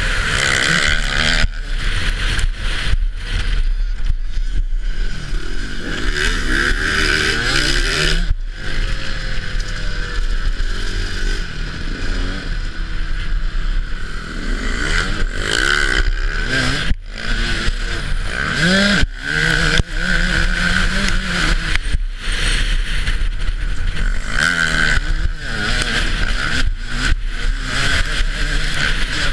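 Off-road motocross bike engine revving up and down, rising and falling in pitch as the throttle opens and closes, heard close up with a steady rush of noise. There are a few brief sharp dips in the sound.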